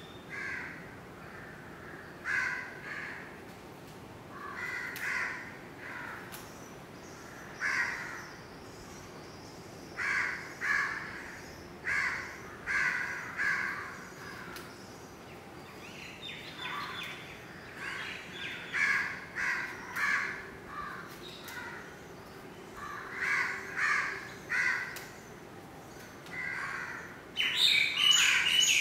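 Birds giving harsh calls in short runs every second or two, loudest near the end.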